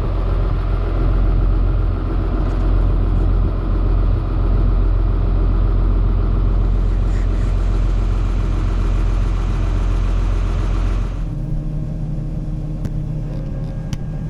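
Combine harvester running steadily while harvesting soybeans: a loud, even machine rumble. About eleven seconds in it changes suddenly to a quieter, lower steady hum.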